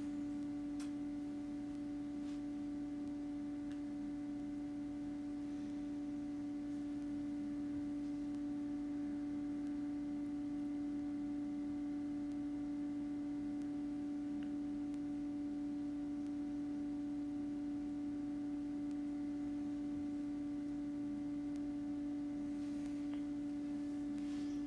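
A steady, unchanging hum at one low pitch, with fainter overtones above it.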